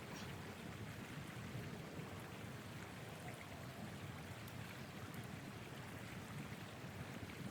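Steady rushing of blizzard wind, with a few faint scattered ticks.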